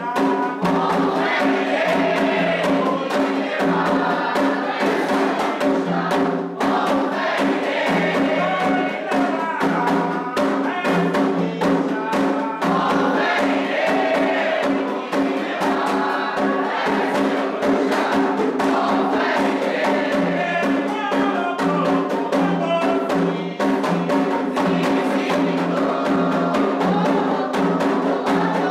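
Candomblé toque: atabaque hand drums beat a dense, steady rhythm under a group of voices singing a ritual chant for Omolu.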